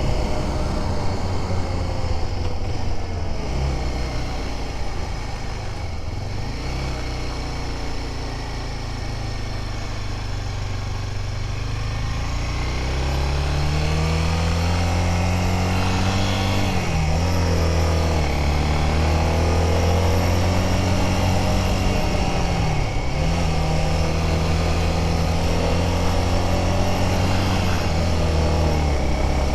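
Honda Dominator motorcycle's single-cylinder engine running while riding uphill. Its note sinks and softens early on, climbs from about halfway through, then holds steady, with two brief dips in engine speed later.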